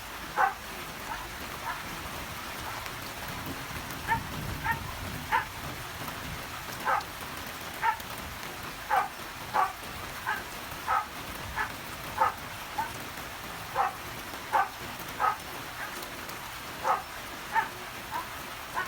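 Steady rain falling, with a dog barking repeatedly in short single barks every half-second to a second. A brief low rumble comes about four seconds in.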